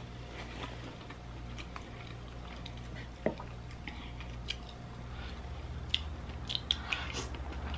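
Close-miked chewing and wet mouth sounds of a person eating seafood-boil food, with scattered small clicks and smacks that come more often in the last few seconds.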